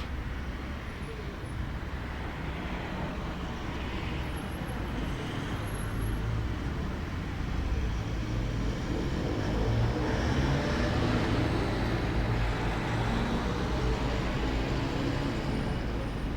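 Road traffic: a motor vehicle passing, its low engine and tyre rumble swelling in the middle and easing off near the end, over a steady background rumble.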